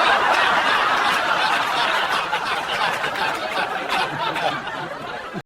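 A crowd of people laughing together, easing off slightly near the end and then cut off abruptly.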